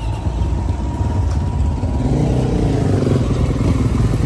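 Dirt bike engine running close by, its note shifting in pitch about halfway through.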